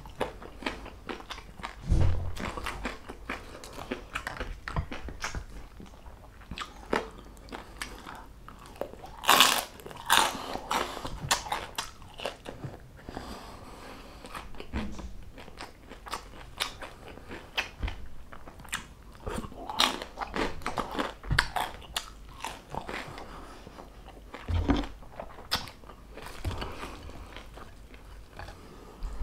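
Close-up chewing and biting of crispy fried pork, with many sharp crunches of the crackling skin throughout and a few louder crunches.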